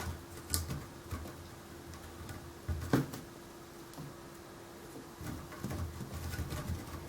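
Bobtail kittens at rough play: scattered light thumps, taps and scrabbling of paws, with a sharper knock about three seconds in, over a steady low hum.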